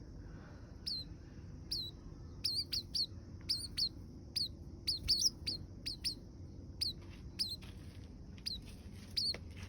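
Young oriental greenfinch calling repeatedly: a quick, irregular series of short, high chirps, each dropping in pitch, some coming in close pairs, about two a second, over a steady low hum.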